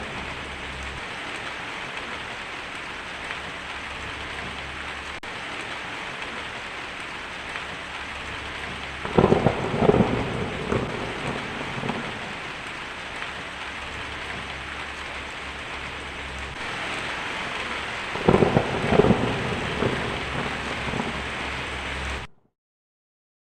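Steady rain with two rolls of thunder, the first about nine seconds in and the second about eighteen seconds in. The sound cuts off abruptly near the end.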